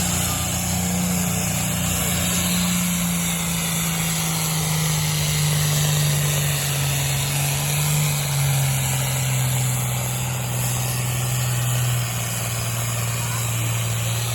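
Engine of a competition pulling truck or tractor running steadily, its pitch sagging gradually and dropping a step about two-thirds of the way through.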